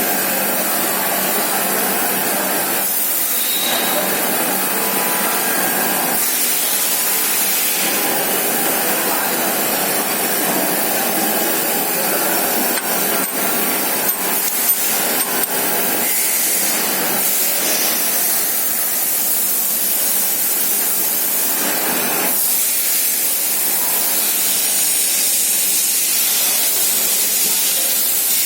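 Surface grinder running with a steady loud hiss, and a few short clicks about halfway through.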